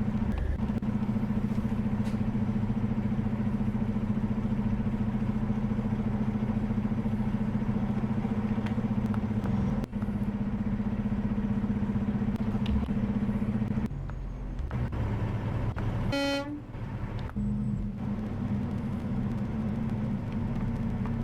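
Vehicle engine droning steadily on dashcam audio. It eases off about two thirds of the way through, and a short horn blast sounds before the drone comes back.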